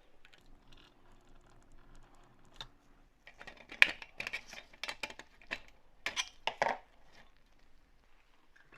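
Light clinks and clatter of small hard objects being handled and set down, a flurry of sharp knocks from about three seconds in to about seven seconds, the loudest a little before four seconds.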